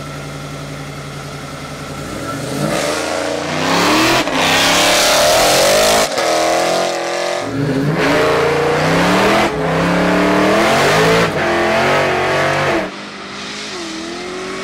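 A car's combustion engine idling, then accelerating hard from about two seconds in, its pitch climbing over and over with sharp breaks at each gear change, until it lets off near the end.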